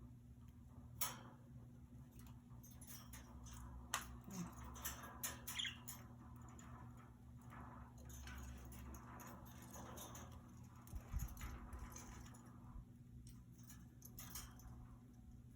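Budgerigars moving about their cage: faint scattered clicks and taps of claws and beaks on the bars and perches, with a brief faint chirp.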